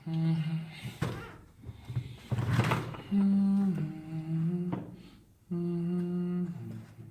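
A man humming a tune to himself in held, stepping notes, with a few short scraping noises in between.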